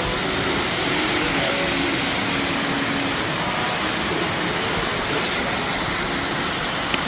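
Steady rush of falling water from a waterfall, even and unbroken, with faint distant voices under it.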